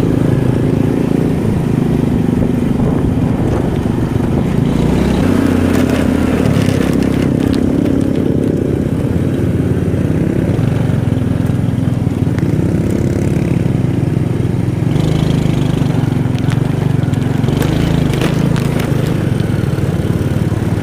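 Motorcycle engine running under way, its pitch rising and falling as the speed changes.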